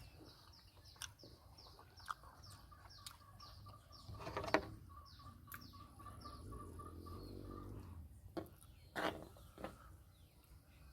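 A bird chirping faintly in the background: a string of short, high, falling chirps about two to three a second, trailing off after about seven seconds, with a few sharp clicks and taps in between.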